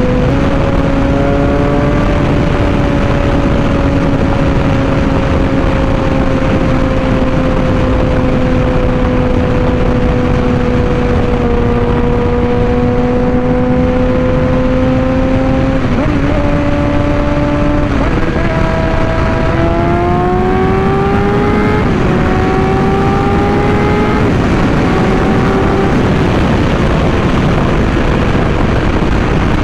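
Suzuki GSX-R600 inline-four engine running at high revs while cruising, under heavy wind rush. The engine note holds and sags slowly, then after a couple of quick breaks in the middle it climbs for several seconds before settling back down near the end.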